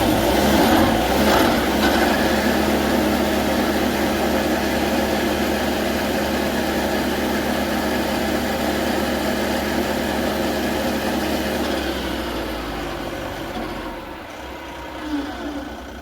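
Vermeer SC48TX stump grinder's engine running steadily, loudest in the first couple of seconds. About twelve seconds in it is shut off and winds down over a couple of seconds, falling in pitch until it stops.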